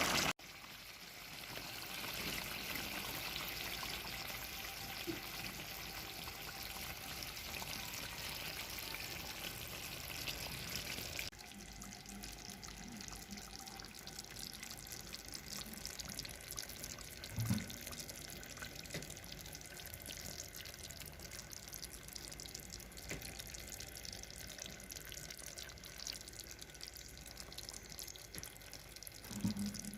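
Water running from a tap into a sink, a steady splashing hiss that drops to a quieter run partway through, with a couple of faint knocks.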